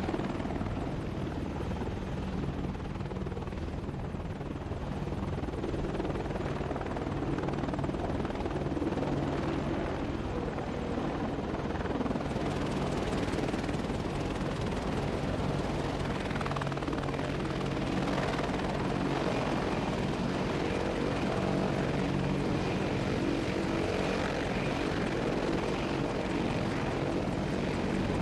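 AH-64 Apache attack helicopters running, their rotors and twin turboshaft engines making a steady, unbroken drone with a low hum.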